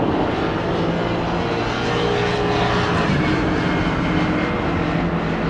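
Boeing 787-9 airliner's jet engines on short final, seconds from touchdown: a steady rushing engine noise with a few low, even hums.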